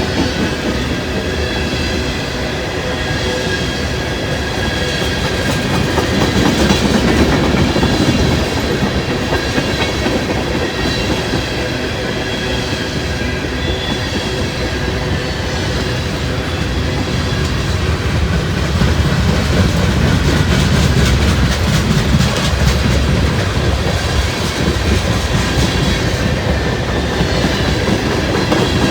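Freight train cars rolling past at close range: a steady rumble of wheels on rail with clickety-clack over the joints and faint high-pitched wheel squeal, the rumble swelling twice.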